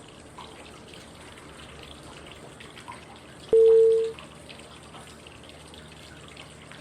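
Steady flowing-water white noise, with a single loud pitched prompt tone about three and a half seconds in that rings for about half a second. The tones come every five seconds at different pitches as breathing cues; this one marks the change from breathing in to holding the breath.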